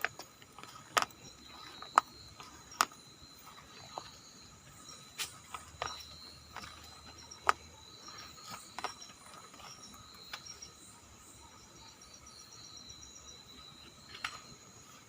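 Night insects, crickets among them, chirring steadily in several high tones, with a short fast ticking trill about two-thirds of the way through. Sharp clicks and snaps sound at uneven intervals over it, mostly in the first half.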